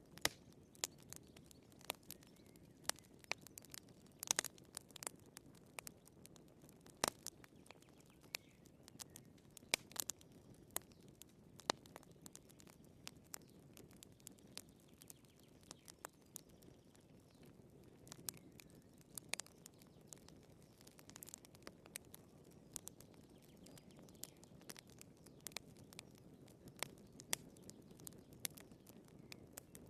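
Wood fire burning in a fireplace: irregular sharp crackles and pops from the burning firewood, a few a second, over a soft low rush of the flames.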